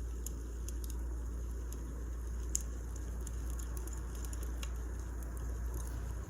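Wood fire crackling: irregular small snaps and pops over a low steady rumble, with one sharper pop about two and a half seconds in.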